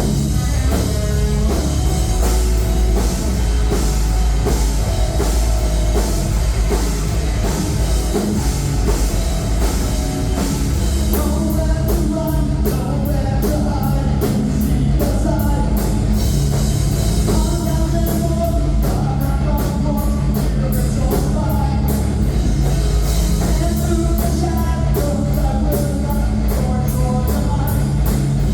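Live rock band playing loud, with a drum kit beating steadily under distorted guitars and bass, and a singer's voice coming in partway through.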